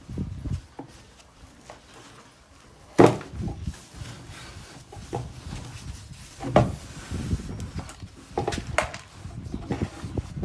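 Handling noise as filter foam is worked into a filter tank: rubbing with several knocks, the loudest about three seconds in.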